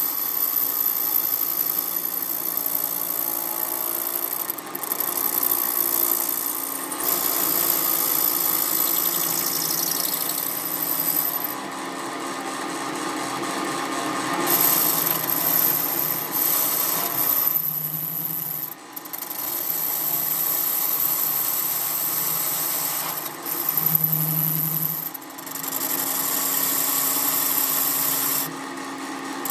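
Workshop power-tool and machining noise, running steadily and changing abruptly every few seconds as one tool gives way to another.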